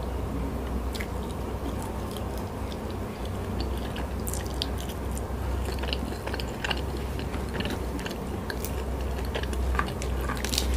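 Close-miked eating sounds: chewing crispy fried food with many sharp crunches and wet mouth clicks, and sucking spicy sambal off the fingers. A low steady hum runs underneath.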